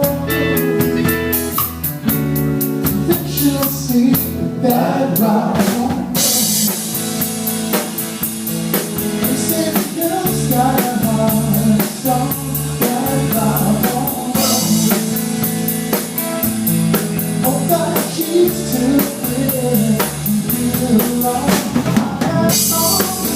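A band playing a song: singing over a drum kit and guitar with a steady beat, the cymbals coming in about six seconds in.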